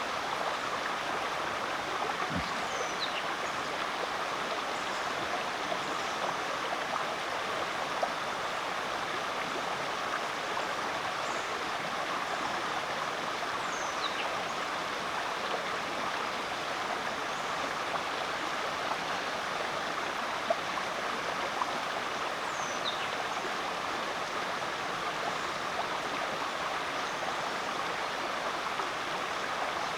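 Rainforest creek flowing, a steady, even rush of running water. A faint, high, falling two-part call sounds about four times over it.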